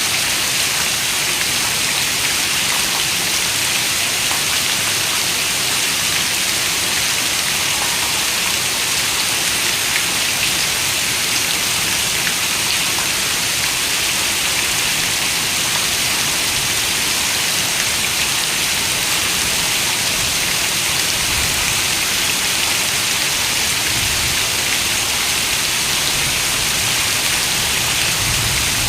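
Steady rain: an even hiss of many falling drops, with a few single drops ticking out now and then. A faint low rumble comes in over the last several seconds.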